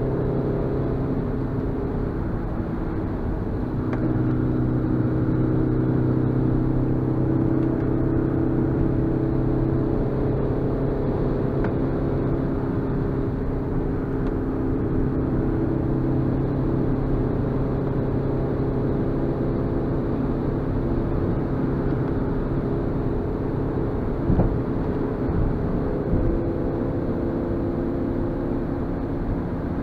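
Suzuki Swift Sport's 1.6-litre four-cylinder engine pulling uphill, with road noise, heard from inside the cabin; the engine note holds fairly steady and gets louder about four seconds in. Two short knocks come near the end.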